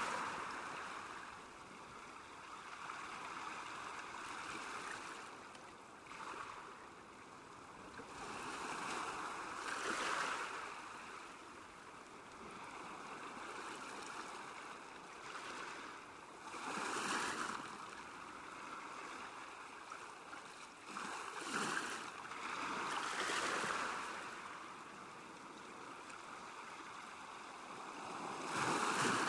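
Lake water lapping at the shore: a steady wash of water noise that swells into small surges every few seconds, as small waves come in.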